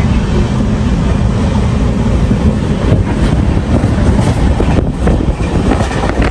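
Indrayani Express running at about 100 km/h, heard from inside the coach beside the window: a loud, steady rush of wheel and track noise. Wind buffets the microphone.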